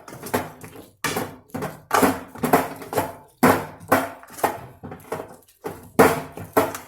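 A spoon stirring and scraping chicken with spices in a metal kadhai: a run of repeated scraping and knocking strokes, roughly one or two a second.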